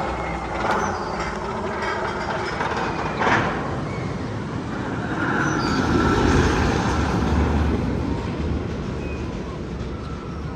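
Steel hypercoaster train running along its track, a continuous rumble that swells in the middle, with a sharp click about three seconds in.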